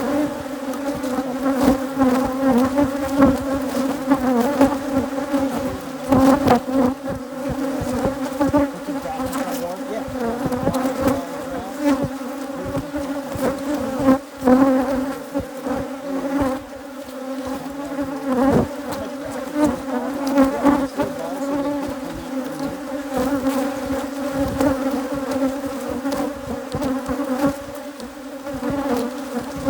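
Honeybees of a hybrid Africanized colony buzzing loudly and steadily close to the microphone, with scattered knocks and bumps from the hive work.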